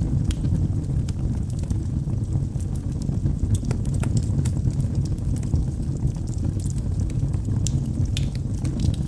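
Wood logs burning in a fireplace: a steady low rumble of flame with scattered small crackles and pops at irregular intervals.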